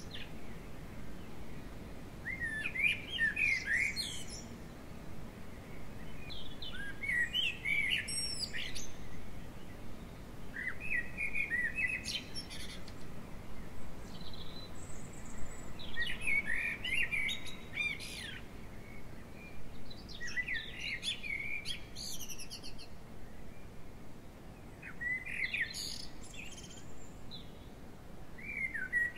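A songbird singing short, varied phrases of quick high notes, each about one to two seconds long and repeated about every four to five seconds, over a faint steady outdoor background noise.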